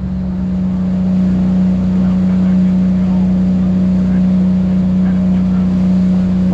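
Charter boat's engine picking up speed at the start, then running steadily at a higher, even pitch.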